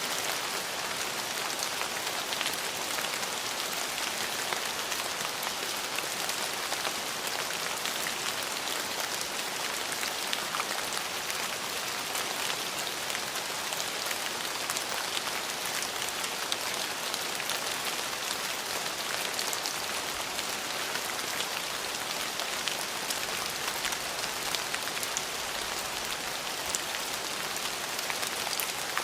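Steady rain falling and pattering on surfaces, an even hiss with many small drop ticks and no letting up.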